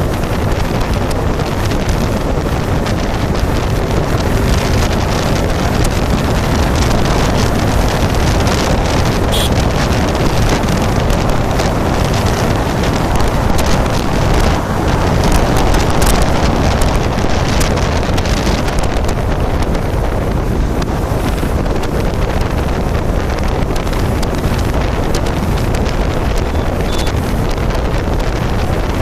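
Wind buffeting the microphone on a moving motorcycle, a steady loud rush with the bike's running and road noise underneath.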